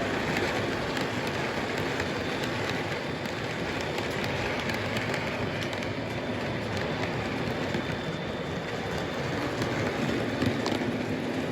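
Lionel O-gauge model train running on a layout's track: a steady running noise from the motor and wheels, with light clicking over the rails.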